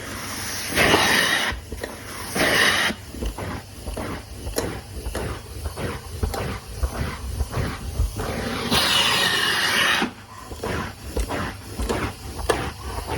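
Carpet being cleaned: three hissing bursts of spray, with runs of quick rhythmic strokes on the carpet between them, about three a second.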